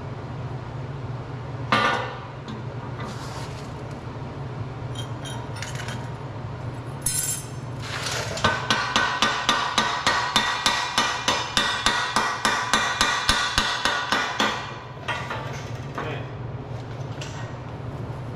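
A hammer striking steel: one sharp knock about two seconds in, then a fast run of blows, about three to four a second for some six seconds, over a steady low hum.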